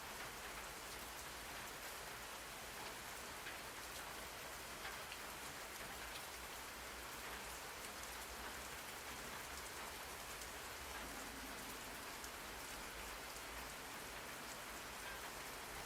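Steady rain falling on a surface, an even hiss with scattered faint drop ticks, played as a constant ambient rain track.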